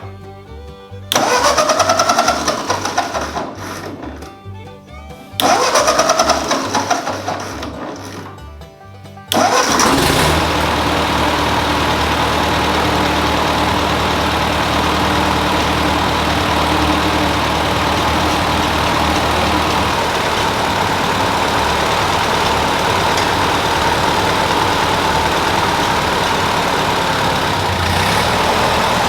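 Ford 8N tractor's four-cylinder flathead engine being cranked over in two bursts without catching, then firing about nine seconds in and running steadily on its first start after a head gasket replacement. Background music plays under the cranking.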